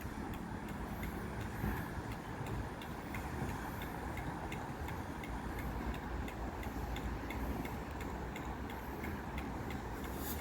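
Heritage railway train running along the track: a steady rumble with light, evenly spaced clicks, a few every second.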